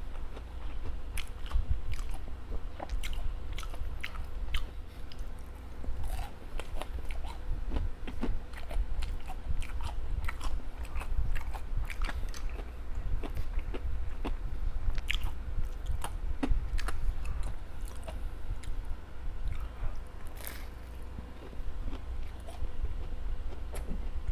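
Close-up chewing and crunching of homemade veggie balls: irregular crisp bites and chews throughout.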